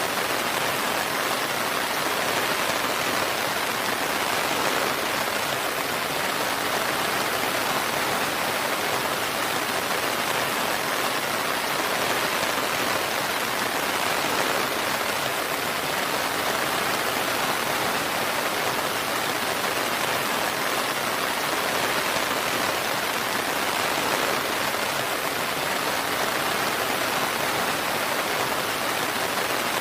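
Steady rain falling without a break, an even hiss of rain.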